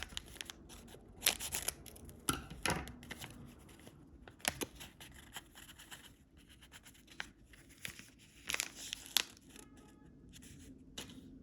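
Candy wrapper packaging being torn open and crinkled: irregular sharp rustles and crackles, with a few louder tears.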